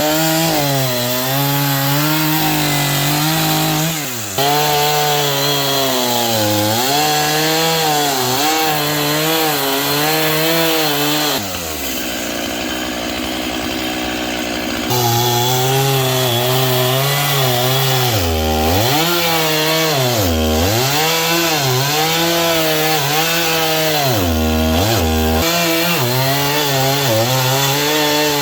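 Chainsaw running hard while cutting through a big tree trunk. Its engine pitch repeatedly sags as the chain bites into the wood and then climbs back. About halfway through, it drops for a few seconds to a quieter, lower running before it is pushed back up into the cut.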